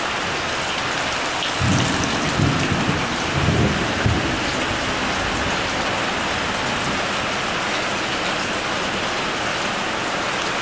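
Steady rain falling, an even hiss. A few low rumbles swell up from about two to four seconds in.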